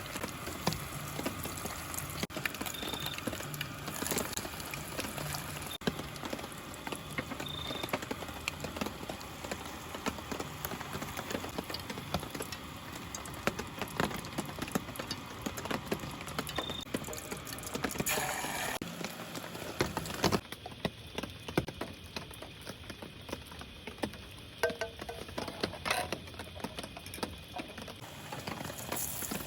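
Steady rain falling in a forest, with a dense patter of individual drops ticking on surfaces.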